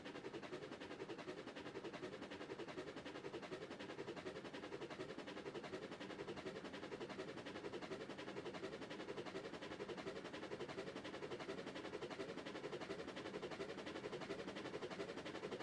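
A steam-hauled train running, a fast, even pulsing beat with a steady rumble and no change through the whole stretch.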